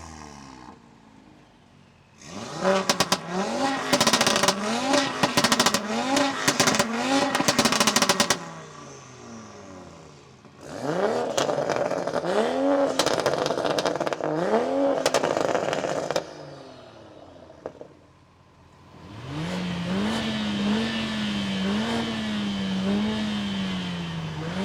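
Performance car engines revved hard in three separate spells during sound checks. The first spell is a run of quick blips with loud exhaust crackles and pops, the second a few slower rev blips, and the third a rev held steady with a slight wobble.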